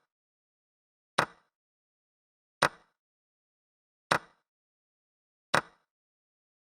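Chess-board move sound effect: a short, sharp click as each piece is placed, four times about a second and a half apart, with silence in between.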